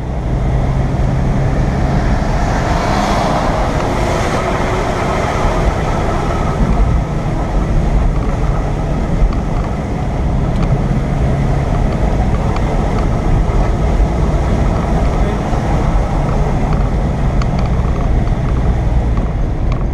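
Car engine running steadily under load, heard from inside the car, with wind and road noise over it.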